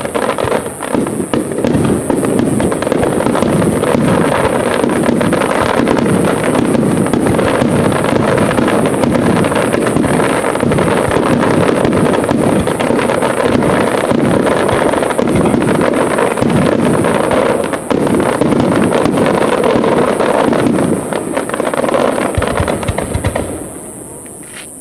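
Fireworks display in full barrage: many aerial shells bursting and crackling in rapid, overlapping succession, dying away just before the end.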